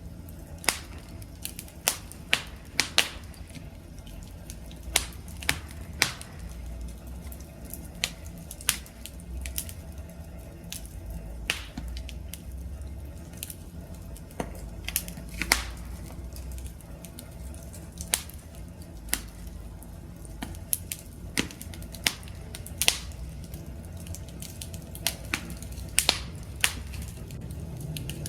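Campfire of burning logs crackling: sharp irregular pops and snaps, one to three a second, over a steady low rumble of the flames.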